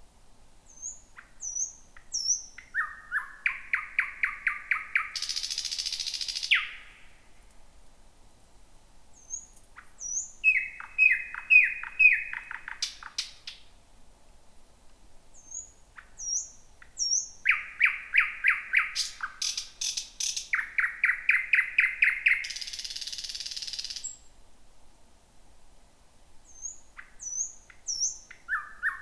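Thrush nightingale singing. There are three song phrases with pauses between them, and a fourth starts near the end. Each phrase opens with a few thin, high whistled notes, runs into a fast series of loud repeated notes, and ends in a dry, noisy rattle.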